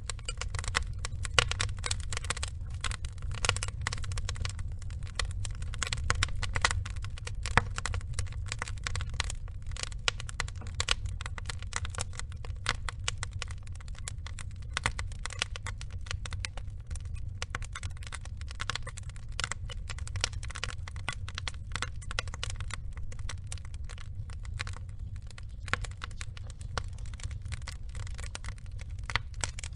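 Burning wood logs crackling: a dense, irregular run of small pops and snaps over a low, steady rumble of the fire.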